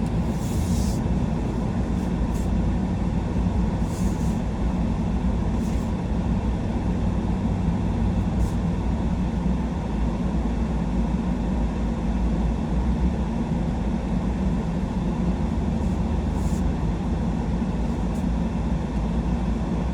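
Pickup truck driving at steady speed: a continuous low rumble of engine and tyre noise, with a few brief high ticks or rattles now and then.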